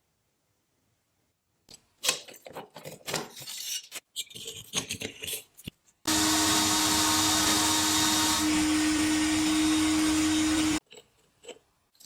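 Irregular knocks and clatter of handling, then about six seconds in an electric power tool starts and runs steadily with a constant pitch for nearly five seconds before cutting off suddenly.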